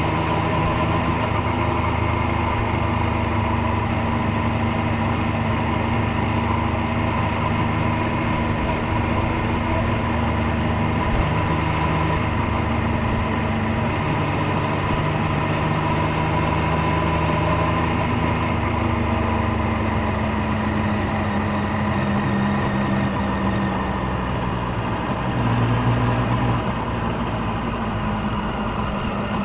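Triumph Street Triple 765 Moto2 Edition's three-cylinder engine and exhaust running at a steady, nearly constant speed, with a short swell about three-quarters of the way through and the pitch starting to fall near the end.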